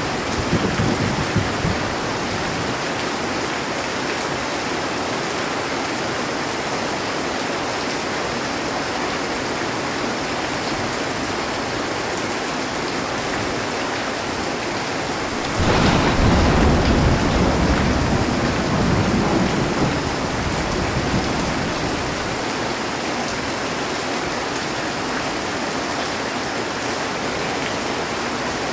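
Heavy rain drumming steadily on a metal roof. A thunderclap breaks in suddenly about halfway through and its low rumble fades over several seconds, with the tail of an earlier rumble dying away at the start.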